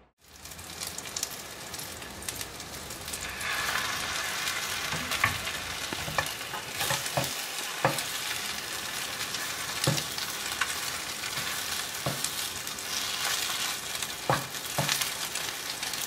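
Thick French-toast bread block frying in a pan, sizzling steadily, the sizzle growing louder a few seconds in. A wooden spatula scrapes and knocks against the pan now and then as the bread is turned.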